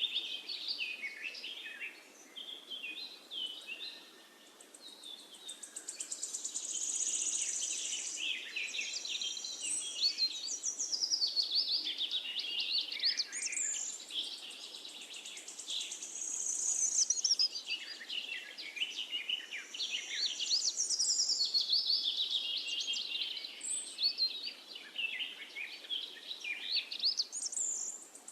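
Several songbirds singing and chirping at once: a dense chorus of quick high trills and twitters that thins out briefly a few seconds in and then swells again, over a faint steady hiss.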